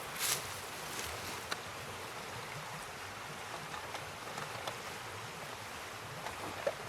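River water flowing with a steady rush, with a brief rustle at the start and a few small clicks near the end.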